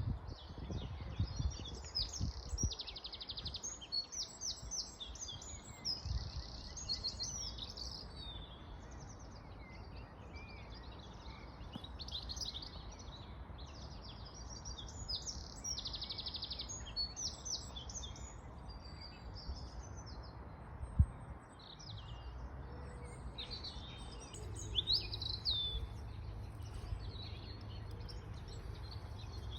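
Several songbirds singing and calling in quick short chirps and trills, over the steady hiss of a running river. A single sharp knock comes about two-thirds of the way through.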